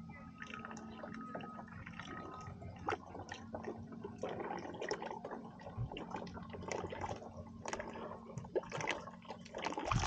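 Used engine oil glugging and splattering as it is poured out of a full waste oil container, spilling onto gravel. The splashing comes in irregular spurts and grows louder near the end.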